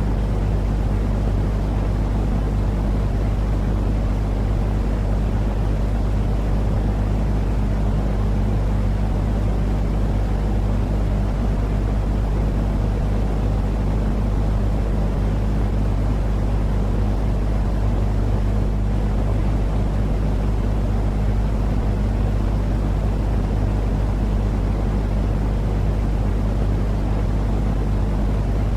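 Steady, unchanging sleep noise for lulling a baby, heaviest in the low end, with a faint steady hum underneath.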